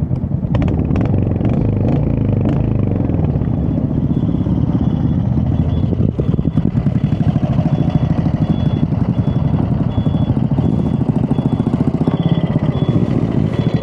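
Motorcycle engine idling steadily close by, with a faint high beep repeating evenly in the background from a few seconds in, like an indicator beeper left on.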